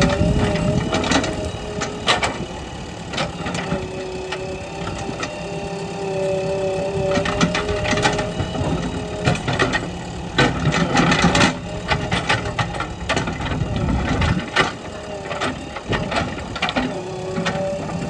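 JCB backhoe loader's diesel engine running with a whine that shifts in pitch, crossed by frequent clanks and knocks.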